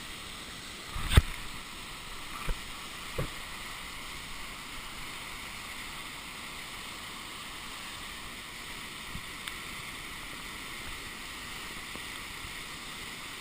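Steady rush of river water, with a few knocks in the first few seconds, the loudest about a second in.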